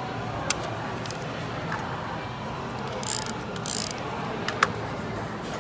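Busy cafe background: a steady wash of crowd and room noise, with two sharp clicks and a brief scratchy rustle about three seconds in, typical of journaling supplies being handled.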